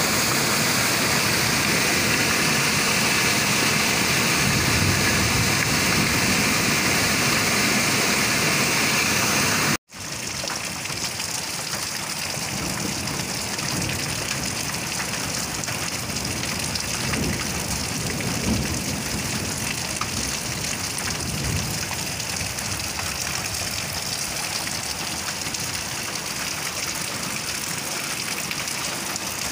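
Storm runoff water rushing steadily, cutting off abruptly about ten seconds in; then heavy rain falling steadily.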